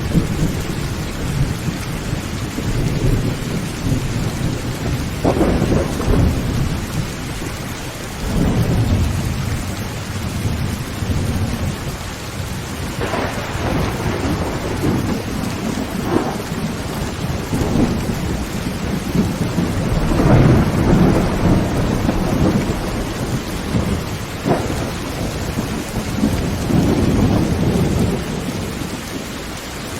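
Heavy rain drumming on a tin tent roof, with thunder rumbling again and again through it and a few sharper claps.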